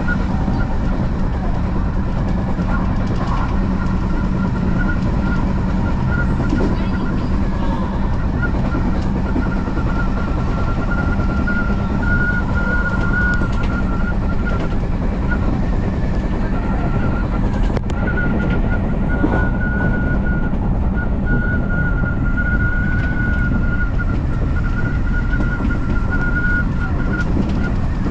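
Odakyu Line electric commuter train running at steady speed: a continuous rumble with a high, slightly wavering whine over it.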